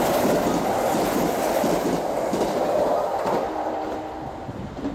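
Kintetsu limited express electric train passing through a station at speed without stopping. Its wheels and rushing air are loud at first and fade away from about three seconds in as the last cars clear the platform.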